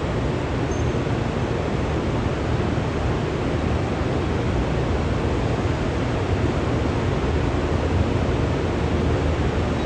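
Steady rumbling noise of a train at the station platform, even throughout with no distinct clanks or horn.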